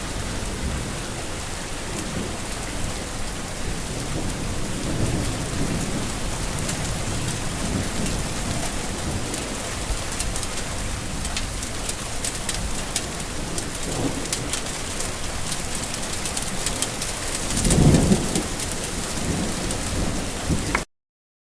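Steady heavy rain falling, with low rolls of thunder. The loudest rumble comes a few seconds before the end. Then all sound cuts off suddenly.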